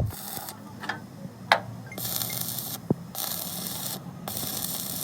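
Repeated scraping strokes, each lasting about a second with short gaps between them, broken by a few sharp knocks; the loudest knock comes about one and a half seconds in.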